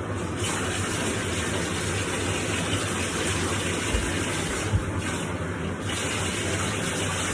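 Water running steadily from a bathtub tap while a dog is bathed, with a couple of brief low knocks about halfway through.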